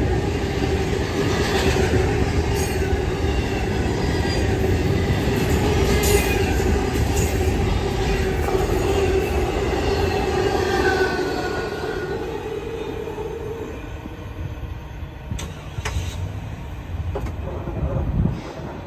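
Norfolk Southern intermodal freight cars rolling past with a steady rumble of wheels on rail and high, wavering wheel squeals. The sound fades away after about twelve seconds as the end of the train goes by.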